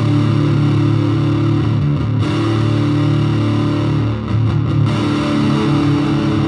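Live rock band playing an instrumental passage: distorted electric guitar and bass holding sustained chords, changing chord about two seconds in and again about four seconds in.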